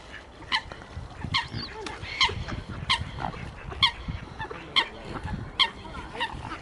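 An animal calling over and over: short, sharp, high calls about one every 0.8 seconds, with a low rumble underneath.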